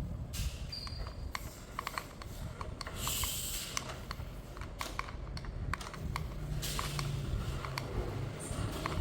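Hands handling a plastic remote-control toy vehicle and its packaging: many small plastic clicks and creaks, with two short rustles about three and six seconds in.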